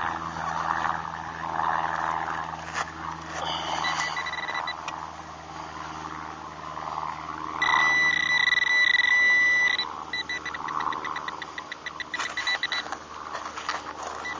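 Metal detector's electronic beeping while checking a dug hole for a target: a few short high tones, then a loud steady high beep for about two seconds near the middle, followed by a quick run of pulsing beeps.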